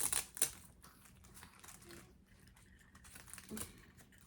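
Rustling and crinkling of a play mat's fabric straps being threaded and handled, with a few sharp rasps in the first half second, then quieter scattered handling noises.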